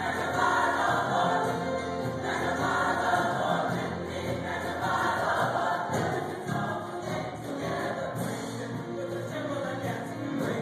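A choir singing a gospel song, many voices together without a break.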